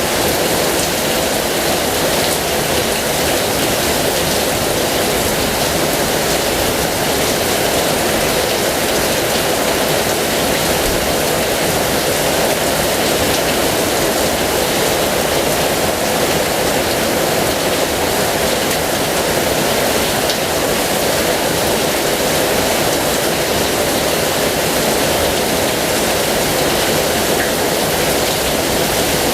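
Heavy rain falling steadily, an even rushing hiss with no let-up.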